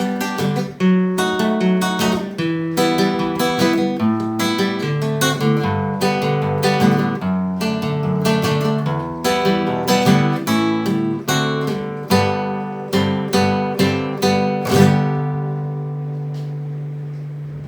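Acoustic guitar playing the song's closing instrumental: plucked notes and strums, ending about fifteen seconds in on a last chord that is left to ring and fade.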